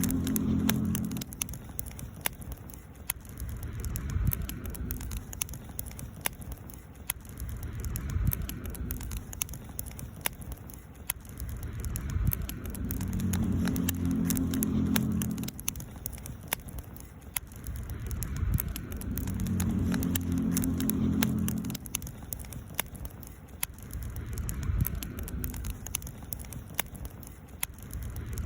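Campfire wood burning with many small crackles and pops. Under it a low hum swells and fades every six to eight seconds.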